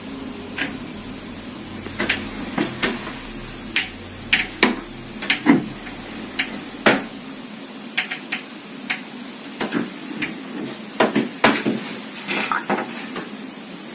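Wardrobe's left door opening slightly and knocking against its frame, again and again in irregular sharp knocks, some in quick clusters of two or three.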